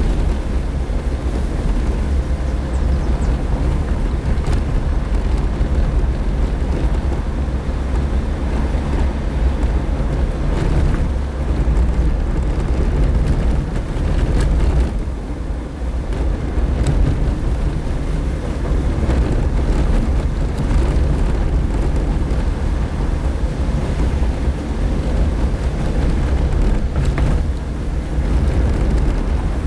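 Suzuki Jimny driving on a dirt road: a steady low rumble of engine and tyres, with wind buffeting the microphone. The rumble eases briefly about halfway through.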